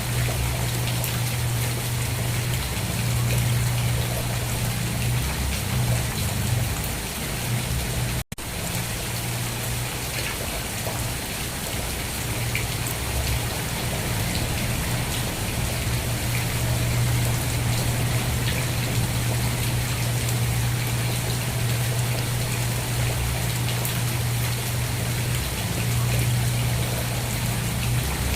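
Steady rain falling, an even hiss with a low rumble underneath. The sound cuts out for a split second about eight seconds in.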